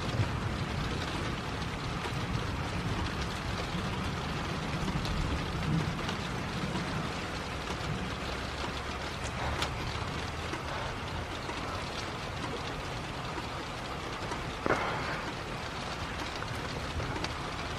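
Steady rain falling, with scattered drops ticking, and one short knock about fifteen seconds in.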